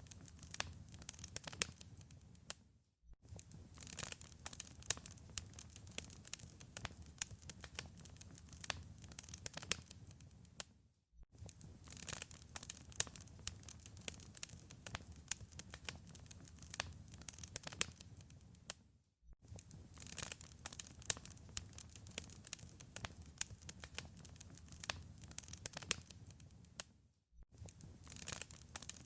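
Wood fire crackling in a fireplace: dense, irregular pops and snaps over a soft low rumble. The sound cuts out briefly four times, about eight seconds apart.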